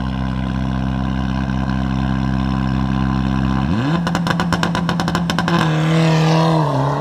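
Rally car engine idling steadily, then revved up about two thirds of the way through and held high with a fast run of sharp pops, the pitch dipping and rising again near the end as the car pulls away from the start.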